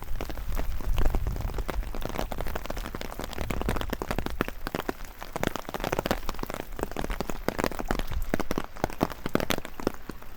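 Rain falling, with many close drops landing in quick, irregular ticks. A low wind rumble on the microphone runs through the first couple of seconds.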